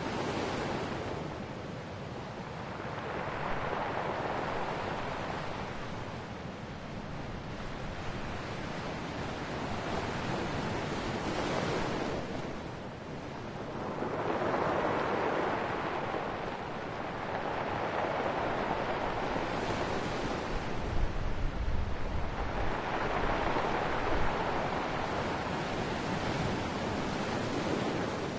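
Ocean waves breaking and washing on the shore, swelling and fading in slow surges every eight to ten seconds, with wind on the microphone adding a low rumble.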